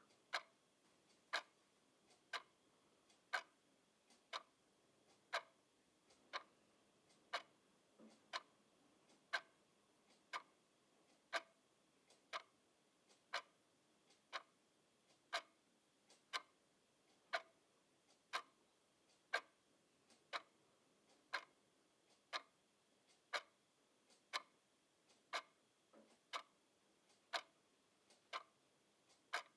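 Mechanical clock ticking steadily at about one tick a second, the ticks alternating louder and softer in a tick-tock pattern, with near silence between them.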